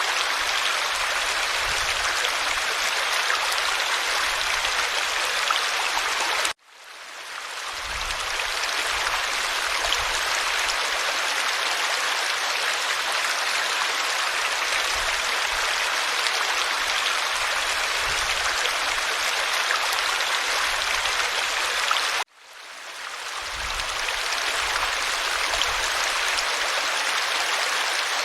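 Forest stream water flowing and babbling in a steady rush. Twice, about a quarter of the way in and again near the end, the sound drops out suddenly and fades back up over a second or two.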